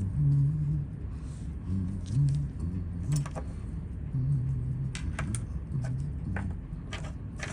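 A man humming tunelessly in short held low notes. About halfway through, small sharp metallic clicks and clinks come in, several in a row: tools working on a quartz chronograph watch as it is taken apart.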